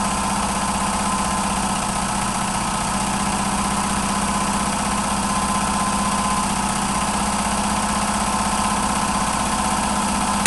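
Homemade three-cylinder oscillating (wobbler) radial engine running steadily on compressed air, with a dense exhaust hiss and an even hum. Right at the end it cuts off suddenly with a short pop as an air hose blows off the engine.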